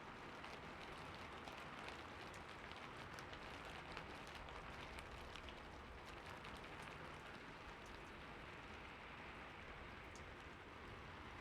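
Steady light rain, with many small raindrops ticking distinctly over an even hiss.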